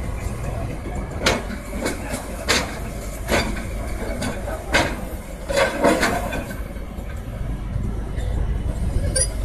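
Kobelco excavator's diesel engine running with a steady low rumble, with about six sharp knocks between one and six seconds in.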